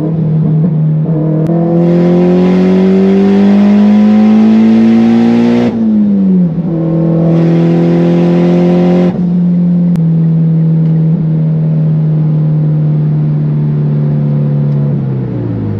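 A 2015 Mitsubishi Lancer Evolution X Final Edition's turbocharged 2.0-litre four-cylinder, fitted with an open dump pipe and a titanium exhaust, heard from inside the cabin. It pulls with a rising pitch for about four seconds under a loud hiss, drops in pitch at a gear change, then surges briefly with the hiss again and cruises steadily. Its pitch falls near the end.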